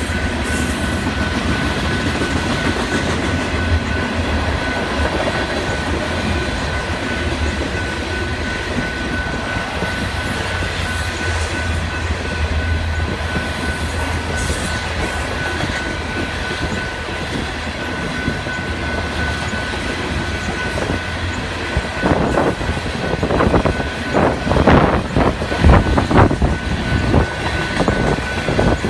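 Freight train of covered hopper cars rolling through a grade crossing: a steady rumble of the cars with the wheels clacking over the rails, and a thin steady high tone held over it. From about three quarters of the way in, louder, irregular thumps join in.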